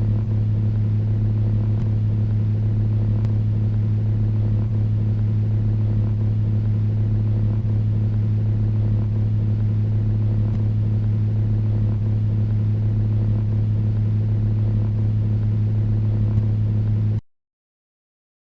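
Steady low engine-like hum that holds one pitch, then cuts off abruptly near the end.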